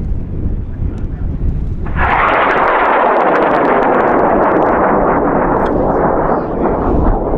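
High-power rocket motor igniting about two seconds in and burning with a loud, steady rushing noise that slowly fades toward the end as the rocket climbs away. Before ignition, wind rumbles on the microphone.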